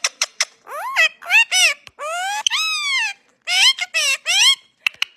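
Parrot vocalizing: a few sharp clicks, then a rapid string of high-pitched chattering calls that rise and fall in pitch, with one longer arched call in the middle.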